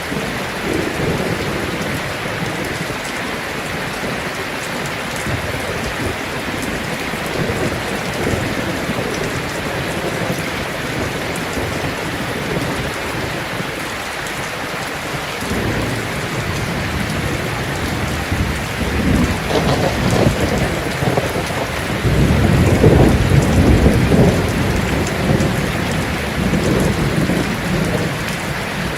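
Heavy rain drumming steadily on a metal roof, with thunder rumbling in from about two-thirds of the way in, loudest near the end.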